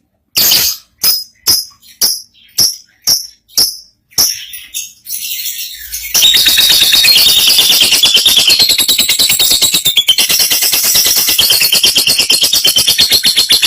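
Lovebird singing: about eight sharp separate chirps roughly twice a second, then from about six seconds in a long, very rapid rattling chatter, the sustained 'ngekek' song that contest lovebirds are judged on.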